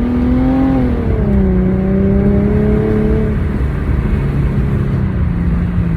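Infiniti G's engine running through a custom mid-pipe-back exhaust while driving: the note rises slightly, drops about a second in, holds steady, and steps down again near the end. Wind rushes on the microphone underneath.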